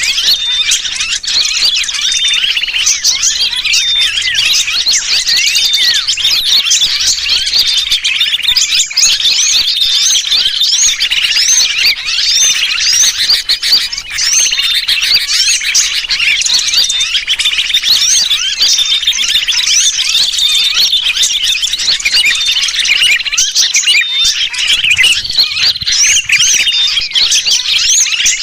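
Bird-lure recording: a dense, unbroken chorus of many small birds chirping and twittering, mixed with the distress calls of a trapped sooty-headed bulbul (kutilang), all high-pitched and overlapping, with short whistled notes repeating among the chirps.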